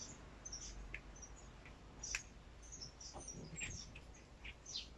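Faint, scattered bird chirps in the background, with a light click about two seconds in, over a low steady hum.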